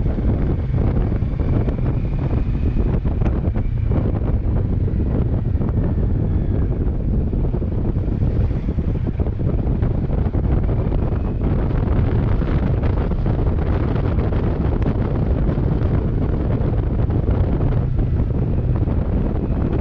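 Heavy wind buffeting on the microphone of a camera riding on a moving motorcycle, a steady loud rush that covers the bike's own running sound.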